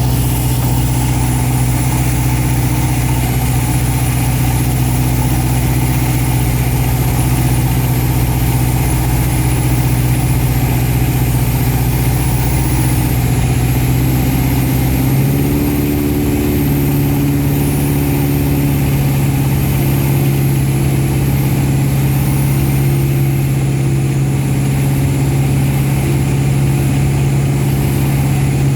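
VariEze light aircraft's piston engine and pusher propeller running with a steady drone; the engine note steps up a little about halfway through.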